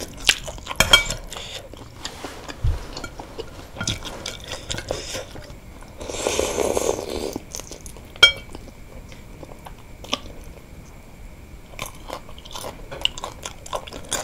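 Chewing and crunching of wontons filled with crunchy chicken cartilage in spicy broth, with a spoon clinking against the bowl, sharply once just after eight seconds in. A louder slurp-like stretch comes about six seconds in, as a spoonful is brought to the mouth.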